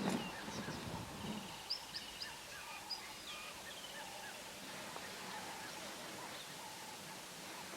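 Several birds calling: short chirps and whistled notes with a brief trill early on, over a faint steady outdoor background. There is a low rumble in the first second or so.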